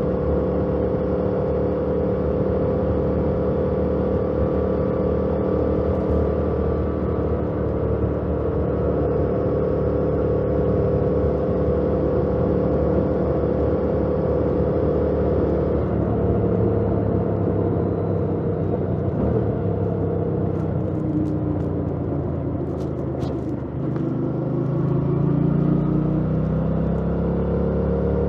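2018 Yamaha MT-07's parallel-twin engine with stock exhaust, running at a steady cruise, with wind noise over a helmet-mounted mic. About halfway through the engine note drops. Near the end it dips briefly, then rises as the bike accelerates.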